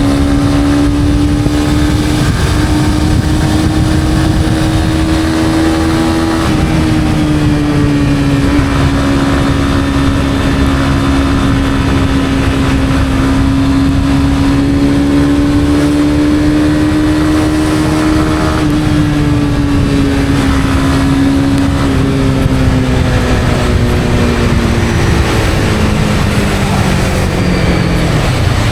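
Honda CB250R's 249 cc single-cylinder engine running at a steady cruise over a constant rush of wind and tyre noise. The engine note holds nearly level, falls over the last few seconds as the bike slows, then steps back up.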